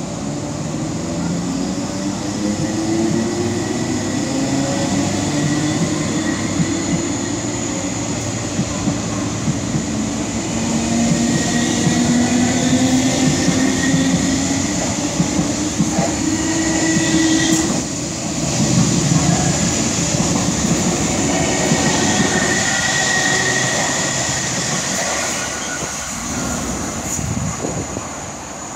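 MTR East Rail line electric multiple unit pulling out and accelerating away, its traction motors giving a whine that climbs in pitch in several steps over wheel-on-rail noise. The sound fades near the end as the train recedes.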